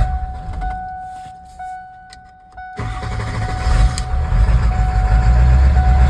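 A 1997 Ford F-250's 7.3 L Power Stroke turbo-diesel dies away as it stalls, then, a little under three seconds in, suddenly fires up again and keeps running: the hard-start-and-stall fault. A steady high tone, broken now and then, sounds throughout.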